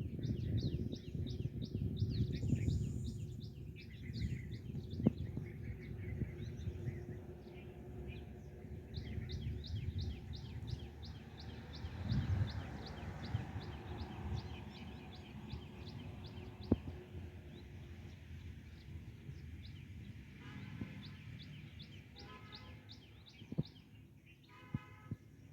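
Birds calling in a long series of short, high chirps repeated several times a second, with a few lower calls near the end, over a low rumble of wind on the microphone.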